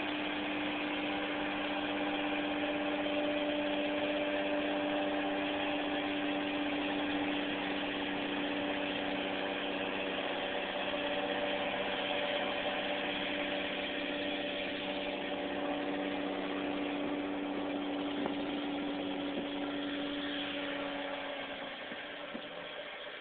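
Vehicle engine running at a steady pitch with an even drone of road noise, easing off and quieter near the end.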